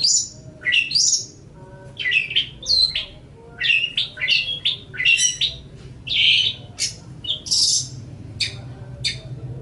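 Long-tailed shrike (cendet) singing: a rapid run of harsh, scratchy notes and sharp chips, ending in a string of short clipped notes.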